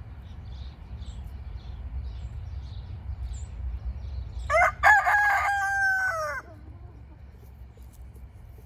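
Rooster crowing once, a single cock-a-doodle-doo of about two seconds starting about halfway through, with a falling tail at the end.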